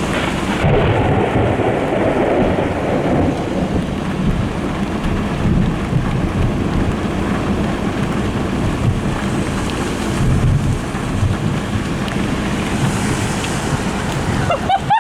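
Thunder from a nearby lightning strike, rolling and rumbling, loudest in the first few seconds and swelling again about ten seconds in, over steady rain.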